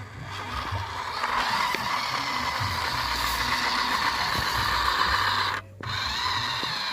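RC toy truck running: a steady whine from its electric motor and gearbox that grows louder about a second in and cuts out briefly a little before the end.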